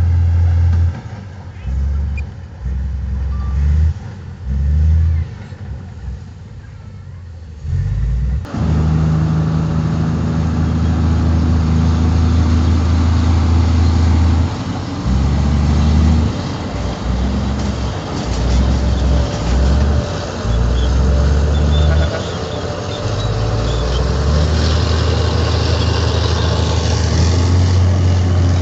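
Heavy diesel engines of earthmoving machinery running with a low rumble that rises and falls as the machines work. About eight seconds in, the sound gets suddenly fuller and louder.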